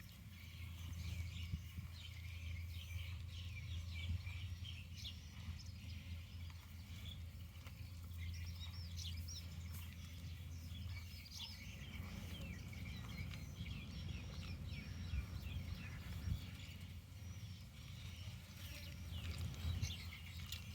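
Small birds chirping over and over in quick short calls, over a steady low rumble.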